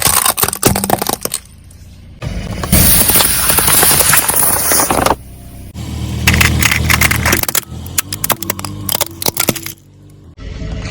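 Objects cracking and crunching under a car tyre in several short takes: bursts of sharp cracks and snaps, a stretch of hiss, and a low rumble under the crunching partway through.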